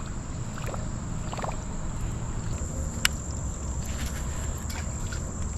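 Steady low rumble of wind and river water around a kayak, with one sharp click about three seconds in.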